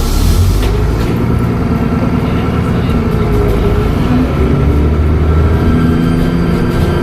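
Dennis Trident double-decker bus engine running under way, with a faint steady turbo whistle over the low engine note. A hiss of released air stops about half a second in.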